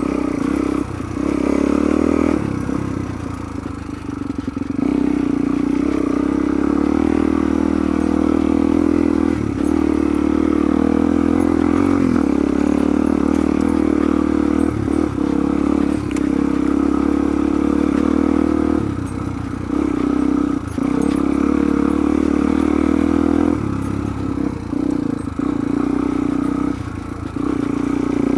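Suzuki DR-Z400's single-cylinder four-stroke engine running on the move at a steady, loud pitch. The throttle eases off and the note drops several times: about two seconds in, around nineteen seconds, and a few seconds before the end. Each time it picks up again.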